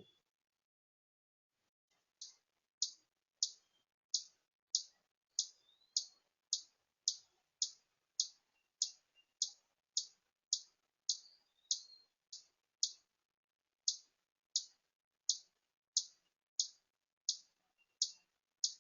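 A small songbird's sharp chip call, repeated very evenly about three times every two seconds, starting a couple of seconds in. Faint higher calls come in between.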